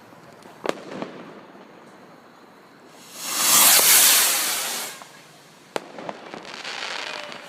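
Fireworks going off: a sharp bang about a second in, then a loud hissing rush lasting about two seconds in the middle. After that come another sharp bang, a stretch of crackling, and a last bang right at the end.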